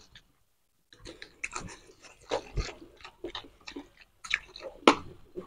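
Close-up eating sounds of mutton curry and rice eaten by hand: irregular wet chewing, lip smacks and clicks, with a brief gap of silence near the start.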